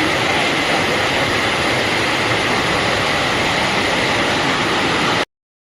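Heavy rain falling, a loud steady hiss that cuts off suddenly near the end.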